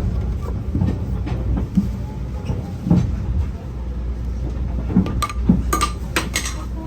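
Railway passenger carriage in motion: a steady low rumble with scattered knocks, and a cluster of sharp clicks and clunks between about five and six and a half seconds in.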